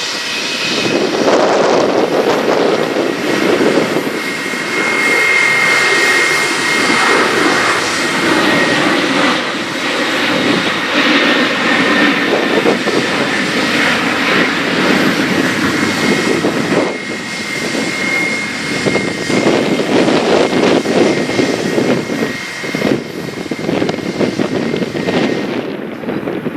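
Airbus A320 jet engines running loud as the airliner passes, a broad rush of engine noise with a steady high whine on top. The noise thins out near the end.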